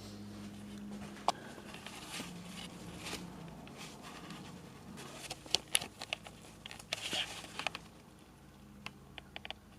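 Footsteps and crunching on a debris-strewn floor: scattered clicks, crackles and scuffs, busiest a little past halfway, with a few light clicks near the end, over a faint steady low hum.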